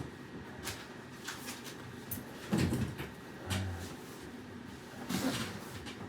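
A few scattered knocks and bumps, like something being handled or a door or cupboard moved, the loudest about two and a half seconds in, followed by a low thud.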